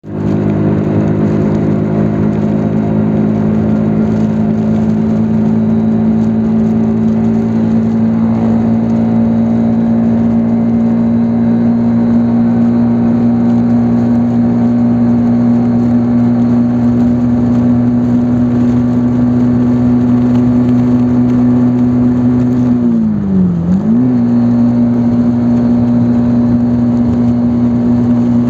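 Motorcycle engine running at a steady cruising speed with an unchanging note. About 23 seconds in, the note drops briefly and comes back up, as when the throttle is eased and reopened or a gear is changed.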